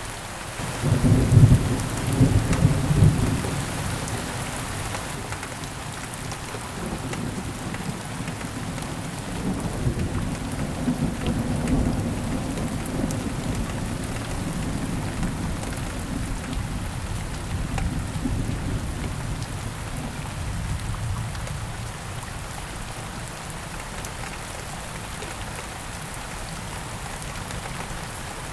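Steady heavy rain with a thunderclap about a second in, loudest over the first few seconds, then rolling thunder rumbling on and off before fading out.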